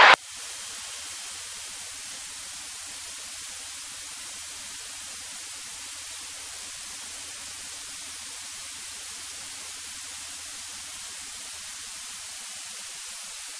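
Steady hiss of static on a cockpit intercom or headset audio feed, with only a faint low hum beneath it.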